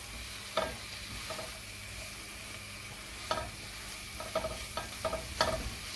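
Chicken, onions and garlic sautéing in a wok with a steady, gentle sizzle, not on high heat. A spatula scrapes and knocks against the pan about five or six times as the pieces are stirred, the loudest stroke near the end.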